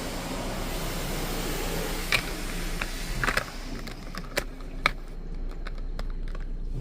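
Touchless car wash rinse spray hissing against the car, dying away, with a scatter of sharp ticks starting about two seconds in and coming more often near the end.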